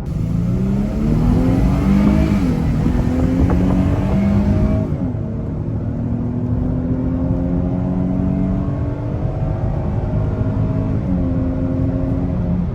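Dodge Charger's V6 engine heard from inside the car, accelerating through the gears. Its pitch climbs and drops back at each upshift, twice in quick succession over the first few seconds under hard throttle. It then climbs more slowly and shifts once more near the end.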